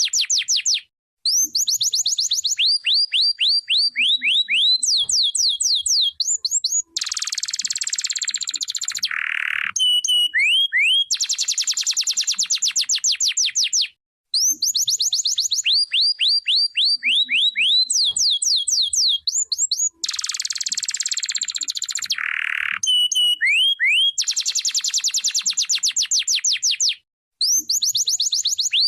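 Domestic canary singing: long, fast trills of repeated sweeping notes, broken by a harsh, buzzy passage, with the same song sequence coming round about every 13 seconds.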